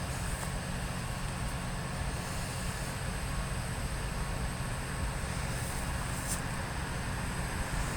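Steady low engine hum that neither rises nor falls, over a faint hiss.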